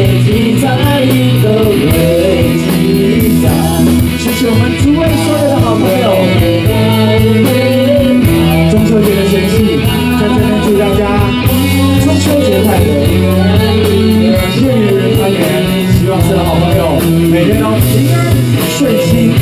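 Live rock band playing: sustained bass notes under a wavering guitar or vocal melody, with a steady cymbal beat.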